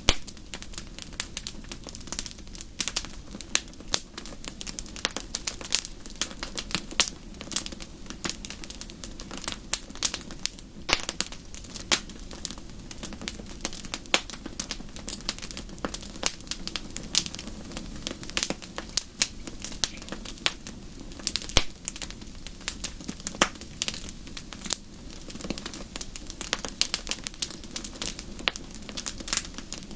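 Wood fire in a fireplace crackling, with frequent irregular pops and snaps over a steady low background of the burning fire.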